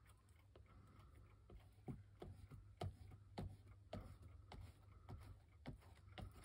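Near silence with faint, sharp clicks and taps, irregular and about two a second, from handling paper-craft materials and tools.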